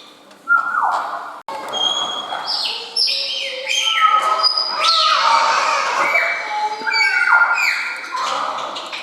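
A flock of birds calling together, many overlapping calls that each slide down in pitch, one after another.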